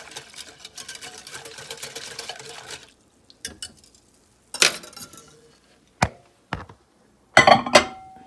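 A whisk stirring briskly in a glass dish of hot pudding, a dense rapid scraping and ticking that stops about three seconds in, followed by a few separate knocks and clunks as the dish is handled.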